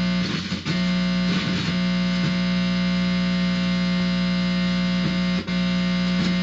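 Guitar amplifier giving a steady, distorted electrical buzz, like mains hum, as a cable is held against the head. It breaks off briefly about five and a half seconds in. The owner takes the buzz for directional narrowband radio-frequency pulses aimed at him.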